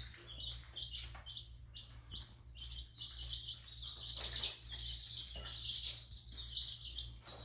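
A group of chicks peeping, a dense run of short high chirps overlapping one another, over a steady low hum.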